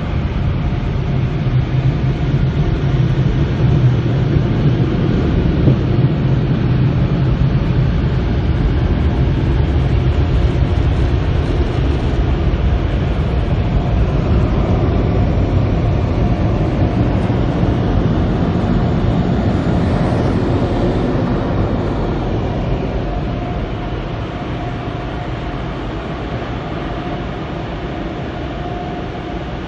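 Automatic soft-cloth tunnel car wash equipment running around the car: a loud, steady rush with a low rumble, a faint steady whine in the second half, easing off over the last several seconds.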